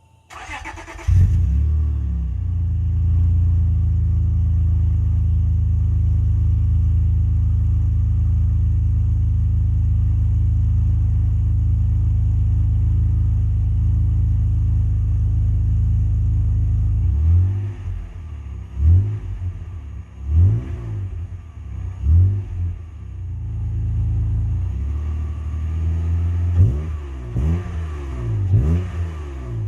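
A 2004 Acura TL's V6 cranks and catches on a cold start through an aftermarket Magnaflow exhaust: a resonator with the mid muffler deleted, plus Magnaflow rear mufflers. It settles into a steady, loud high idle for about fifteen seconds, then revs in a series of short throttle blips, with a longer rev near the end.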